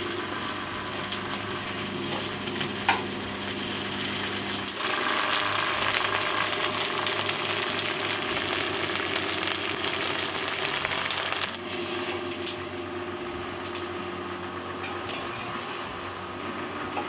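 Okra frying in hot oil in a kadhai, a steady sizzle that gets louder about five seconds in and drops back down at about twelve seconds.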